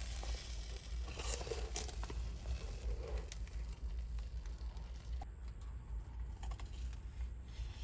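Strong wind buffeting a parked car, a steady deep rumble, with faint crinkling and small clicks over it.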